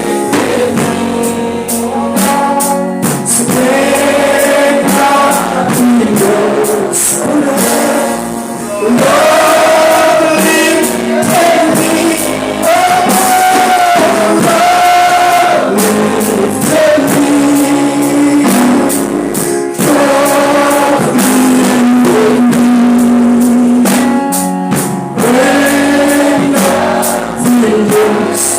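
Gospel song sung by a choir or congregation with instrumental backing, with high percussion strokes such as a tambourine throughout.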